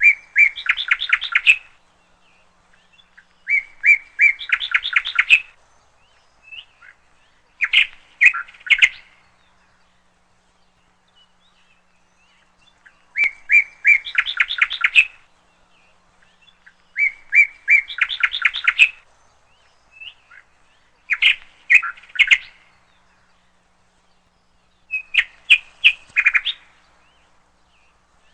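A songbird singing a repeated phrase, seven times: each phrase is a quick run of rapid chirping notes lasting a second or two, with pauses of a couple of seconds between phrases.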